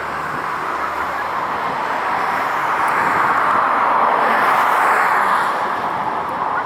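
A passing vehicle: a steady hiss of tyre or wheel noise that swells to a peak about four to five seconds in and then eases off.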